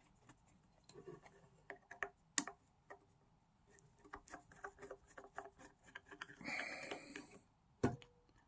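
Faint scattered clicks and taps of small plastic parts being handled as a solar lawn ornament's housing is opened by hand, with a brief scraping rustle late on and a sharper click near the end.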